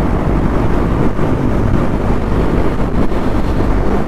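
KTM Duke 390's single-cylinder engine running on the move, under a steady rumble of wind on the rider's microphone.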